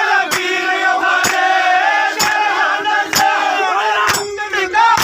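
Haryanvi ragni folk stage music between sung lines: a wavering melody over a steady drone, with a loud drum stroke about once a second.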